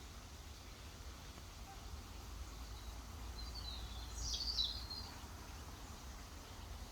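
Woodland ambience: a faint steady hiss over a low rumble, with a bird calling once a little past the middle in a short run of high, quick chirps.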